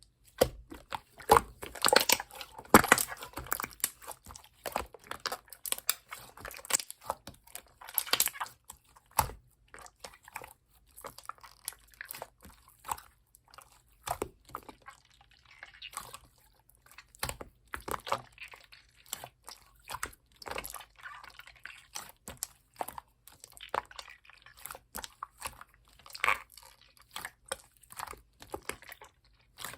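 Clear slime being squished, pressed and pulled by hand, giving irregular sticky clicks, pops and crackles. Busiest in the first few seconds.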